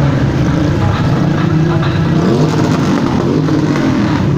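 Motorcycle engines running loud and steady, with engines revving up and down about halfway through.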